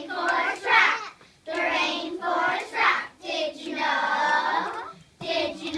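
Children singing a song, in short sung phrases with a long held note about four seconds in.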